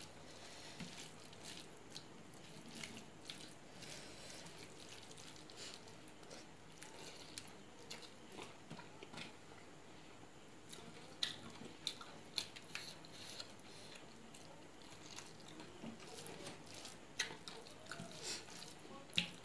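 A person chewing a mouthful of rice with eromba and fried bitter gourd, close up: soft chewing with scattered short mouth clicks and smacks, a few of them louder a little past halfway and near the end.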